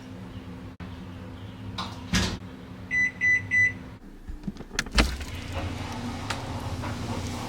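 A steady machine hum with three short, high electronic beeps about three seconds in. The hum stops just after the beeps, followed by a few clicks and a sharp thump.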